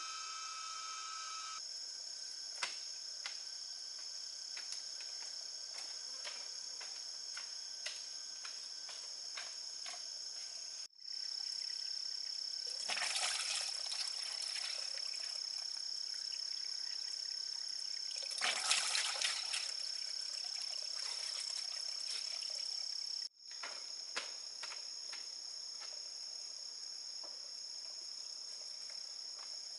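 Steady high-pitched insect chorus, crickets or similar, with scattered light clicks and two brief noisy rustles around the middle. The sound drops out for a moment twice.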